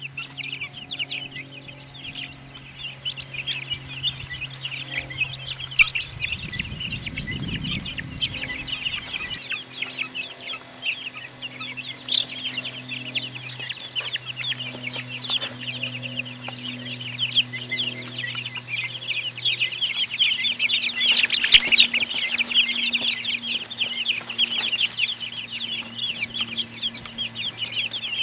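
A brood of chicks peeping without a break, many short high peeps overlapping. A faint steady low hum runs underneath, and there is a brief low rumble roughly six to nine seconds in.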